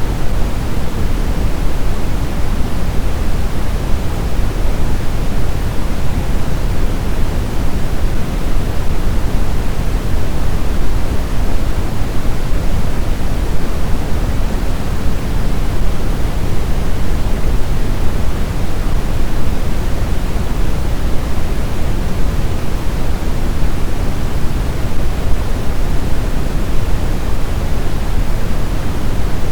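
Blizzard wind: a loud, steady rushing noise, deepest and strongest in the low end, without distinct gusts or whistles.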